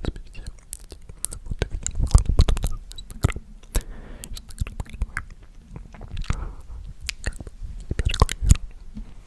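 Close-miked ASMR mouth sounds: a rapid, irregular run of wet clicks and smacks, with heavier low thumps about two seconds in and again near the end.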